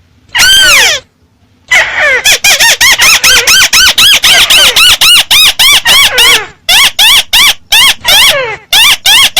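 Volume-boosted recording of the calls of the bird known in Vietnamese as chim mắt xéo: a long call falling steeply in pitch, then from about two seconds in a fast run of short arched notes, about five a second, broken by brief pauses.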